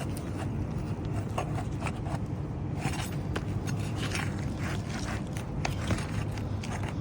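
A pry tool scraping and clicking against old asphalt shingles and their nails as a shingle is worked loose, in irregular short scrapes, over a steady low rumble.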